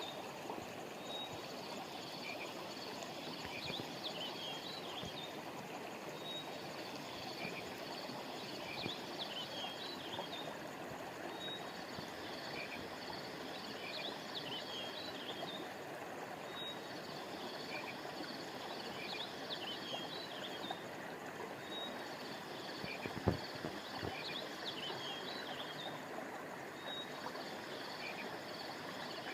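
A river flowing steadily, under a chorus of high chirping calls from birds and frogs or insects that repeats in the same pattern about every five seconds. A single brief low thump comes about four-fifths of the way through.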